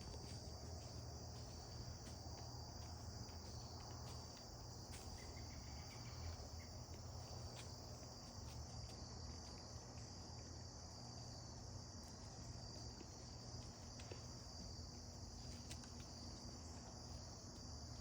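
Faint, steady chorus of crickets: a continuous high trill that does not let up.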